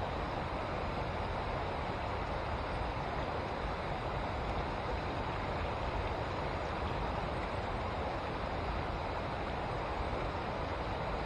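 River water rushing steadily through rapids, an even, unbroken wash of noise.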